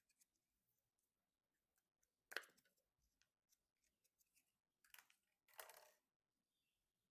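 Quiet handling of PC component packaging during unboxing: three short noisy sounds, the loudest about two seconds in and two more around five to six seconds in, with faint small ticks between them.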